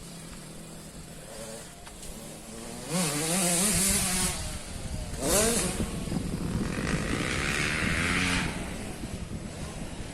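Motocross dirt bikes running on the track, engine pitch wavering up and down as they rev, loudest about three to four seconds in, with a sharp rising rev just after five seconds.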